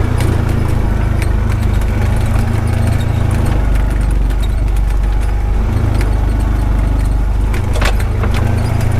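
Honda Pioneer 520 side-by-side driving over a rough dirt road, its single-cylinder engine giving a steady low drone under scattered knocks and rattles from the machine jolting along.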